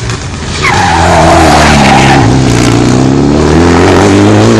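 Rally car at a hairpin with its tyres squealing and scrubbing for a second or so under hard cornering, while its engine runs at low revs. The engine revs rise near the end as it pulls away.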